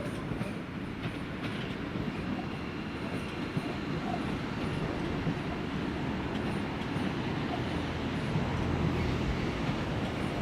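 A train moving through a railway station: a steady rumble of wheels and running gear, with a low hum coming up strongly near the end.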